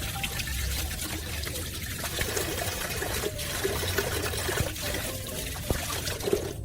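Water trickling and pouring steadily, with a few light knocks in the second half.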